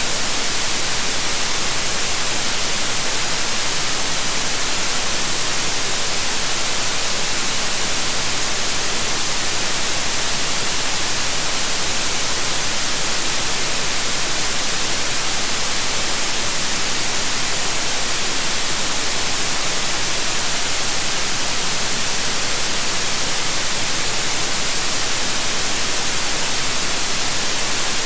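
Steady, unvarying white noise: an even hiss across all pitches, strongest in the high end, with no breaks or events.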